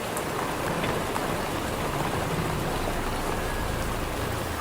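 Steady rain falling, an even hiss with a few individual drops ticking.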